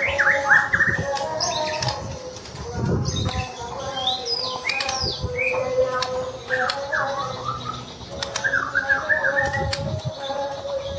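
Caged songbirds singing, with fast chattering runs and whistled phrases over steady held notes, and wing flapping a couple of times.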